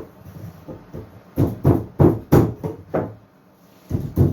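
A quick run of about six knocks on wood, then two more near the end, like a wooden board being knocked into a snug fit.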